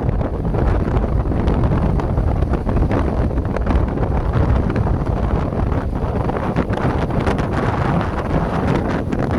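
Wind buffeting the microphone: a steady, loud, low rumbling with irregular gusty crackles.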